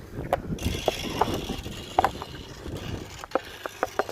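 Bicycle clattering and clicking as it is ridden and handled, with loose rattles and then a quick run of sharp ticks near the end.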